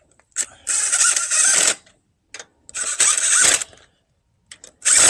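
Power tool running lug nuts down onto a wheel in several short bursts of about a second, with a motor whine under the clatter.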